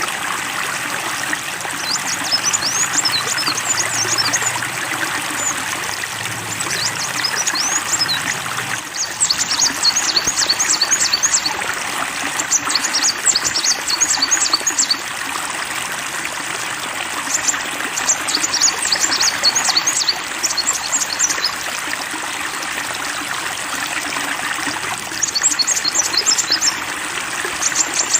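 Flowing water trickling steadily, with a small songbird singing in repeated bouts of rapid, high chirping trills every few seconds.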